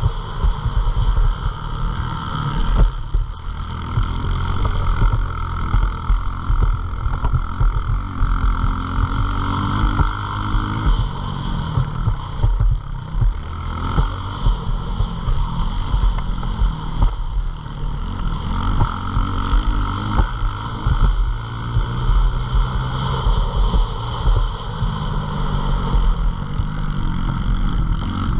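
Pit bike's small single-cylinder engine running hard, its pitch climbing again and again as it accelerates and dropping back between gears or corners.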